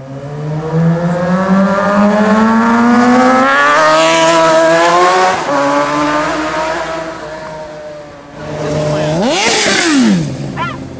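Sport motorcycle engine accelerating, its pitch climbing for about five seconds, then dropping at a gear change and easing off. About nine seconds in it gives one quick, sharp rev that rises and falls back.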